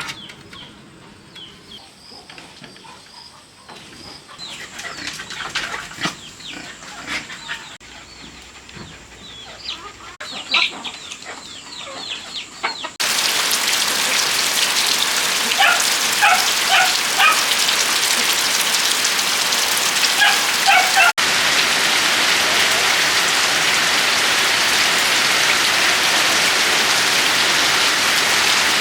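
Steady heavy rain that starts suddenly about halfway through, with short animal calls over it in clusters of three or four. Before the rain it is quieter, with scattered clicks and short calls.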